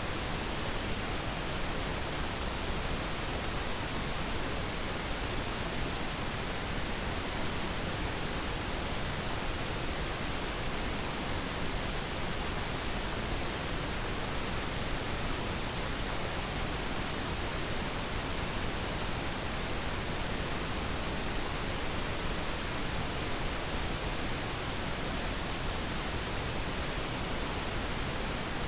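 Steady, unchanging pink noise: an even hiss across the whole range with no chime or other event.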